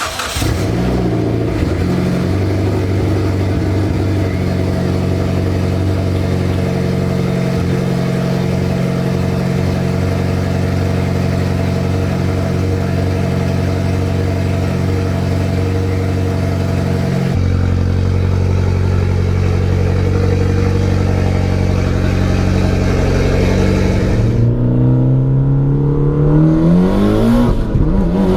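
Car engine running at a steady cruise. The sound changes abruptly about two-thirds of the way through. Near the end the engine accelerates hard with a rising pitch, twice.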